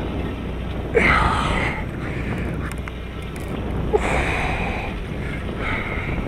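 Steady drone of the sportfishing boat's engine with wind on the microphone, broken twice by a brief sharp, louder noise, about a second in and about four seconds in.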